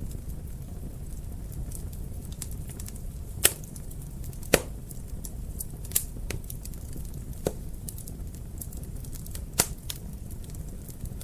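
Wood fire crackling in a fireplace: a steady low rumble of burning under many small crackles and about five sharp pops. The loudest pops come about three and a half and four and a half seconds in.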